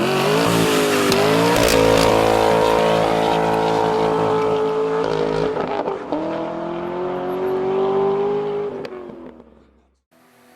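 Nissan 370Z's 3.7-litre V6 through a Kinney's Street Demon performance exhaust, pulling hard. The pitch climbs and holds, drops at a gear change about halfway through and climbs again, then dies away and cuts off suddenly near the end.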